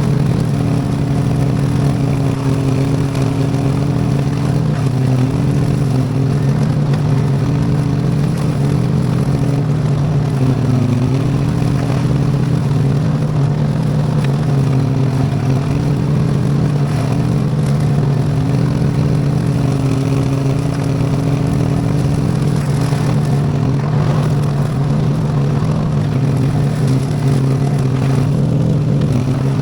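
V-twin Briggs & Stratton engine of a homemade tractor running steadily under load, mowing with a belt-driven bush hog rotary cutter, with some clatter.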